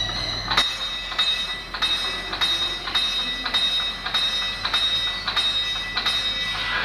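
A small bell is rung by a trained bird about ten times, one strike every half second or so, each leaving a ringing tone. The bird is tapping out the answer to an addition problem, five plus five.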